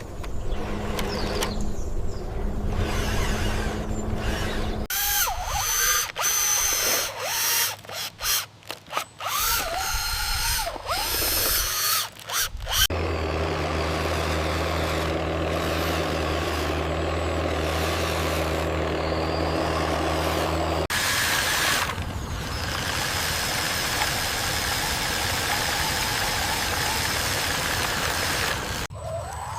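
Truck-like engine and machine noise from RC construction vehicles working, in several abrupt segments. There is a steady drone, a stretch of choppy sound with a whine rising and falling, and a steady hiss-like running noise.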